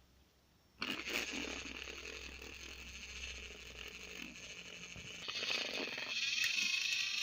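Small electric motor and gears of a battery-powered toy train whirring steadily. It switches on suddenly about a second in and gets louder after about five seconds.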